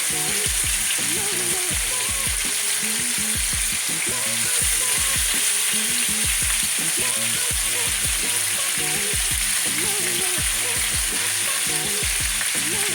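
Quail pieces sizzling steadily as they sear skin side down in hot caramelized sugar in a deep pan, browning.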